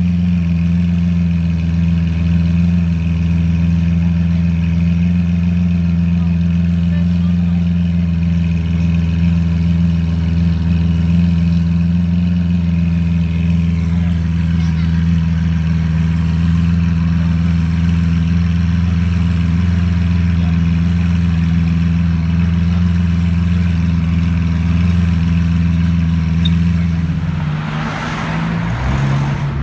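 Lamborghini Aventador SV's 6.5-litre V12 idling steadily, close behind its exhausts. Near the end the steady idle note breaks up into a brief rush of noise.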